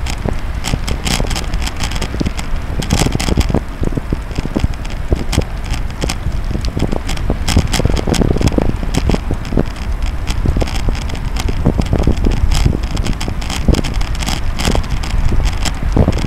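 Riding a cross bike: a steady rumble of wind on the microphone with frequent irregular rattling clicks from the moving bike.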